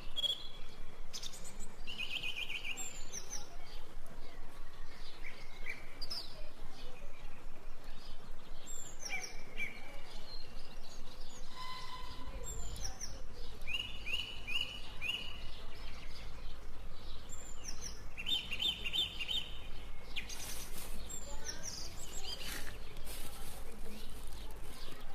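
Wild birds chirping and calling, with short runs of quick repeated notes, over a steady background hiss.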